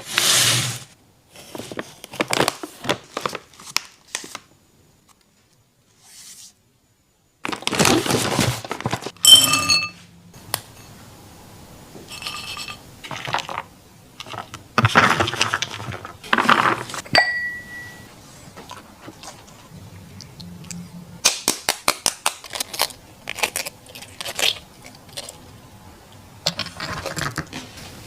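A merle border collie eating, with bursts of crunching and chewing and sharp clicks, broken by about three seconds of dead silence a few seconds in.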